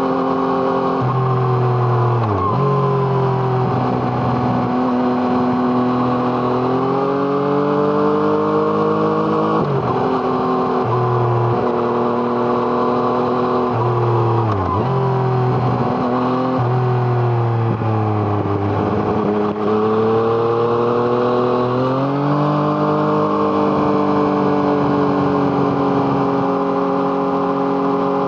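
Yamaha MT-09's three-cylinder engine through an Arrow Thunder aftermarket exhaust, heard from on the bike while riding. The revs rise and fall continuously, dropping off sharply about half a dozen times as the throttle is closed and then climbing again under acceleration.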